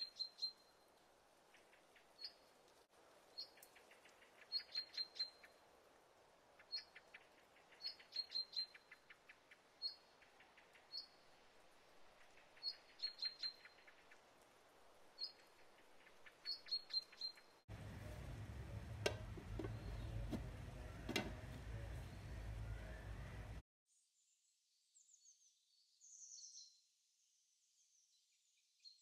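Small birds chirping: short high chirps, singly and in quick little runs, every second or so over a faint hiss. About 18 s in, a louder stretch of low rumble and clicks lasts about six seconds and cuts off suddenly. Fainter, higher bird calls follow near the end.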